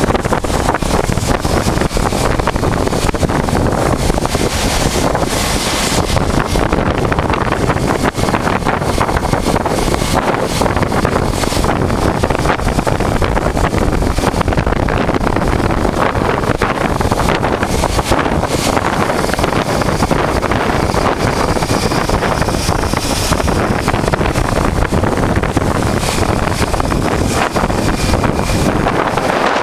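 Steady wind rushing over the microphone of a 1988 Honda Transalp motorcycle riding along, with road and engine noise mixed in.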